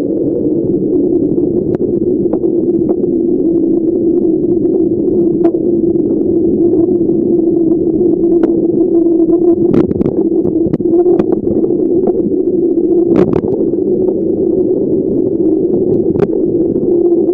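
A bicycle rolling along, heard from a camera mounted by its back wheel: a loud, steady noise of the tyre and passing air, with scattered sharp clicks and a few louder knocks, the strongest about ten and thirteen seconds in.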